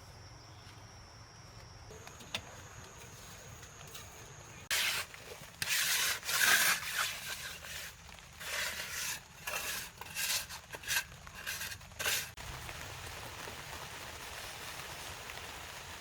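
A run of irregular scraping, rasping strokes, each up to about half a second long, from about five to twelve seconds in, then a steady faint hiss.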